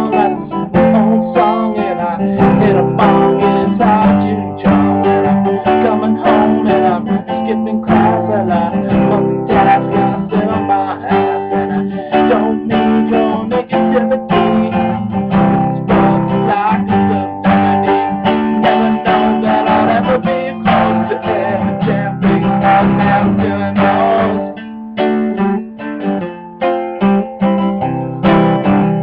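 Acoustic guitar strummed in a steady rhythm, an instrumental passage with no singing; the playing thins briefly about 25 seconds in.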